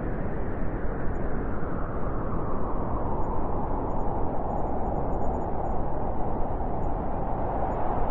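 Blizzard wind blowing hard and steadily, a dense rushing noise that grows a little brighter toward the end.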